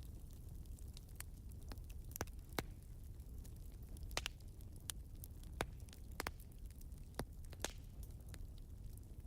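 Wood fire crackling, with sharp pops at irregular moments over a low steady rumble.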